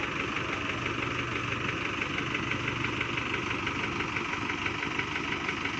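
Diesel engine idling steadily with a fast, even clatter.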